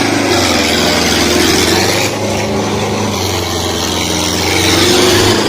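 Tractor engine running steadily, dipping slightly in loudness a couple of seconds in.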